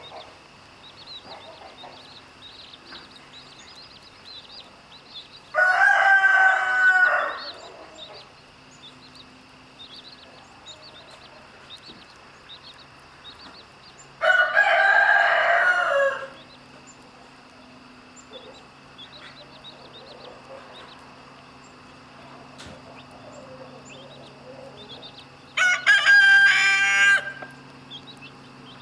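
A rooster crowing three times, each crow about two seconds long: about six seconds in, about fourteen seconds in and near the end. Between the crows there are faint, rapid, high peeps of chicks.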